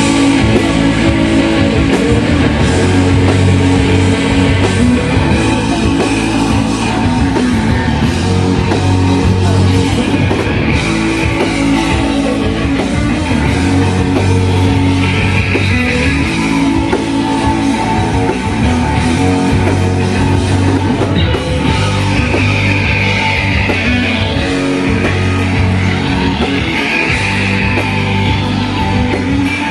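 Live shoegaze rock band playing loud and steady: a dense wall of guitars with bass and drum kit.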